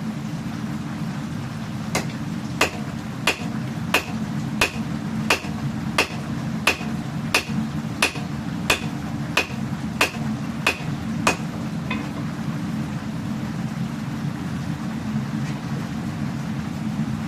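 Hand hammer striking steel on an anvil while forging a katana blade: about fifteen blows at an even pace of roughly one and a half a second, each with a short metallic ring, stopping about eleven seconds in. A steady low rumble runs underneath.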